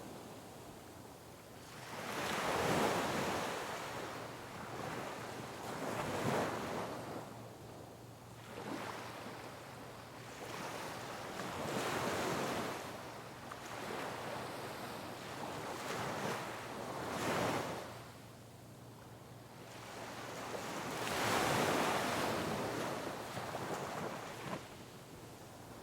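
Sea waves breaking on rocks, each crash swelling and washing back, about five or six surges with quieter hiss of water between them.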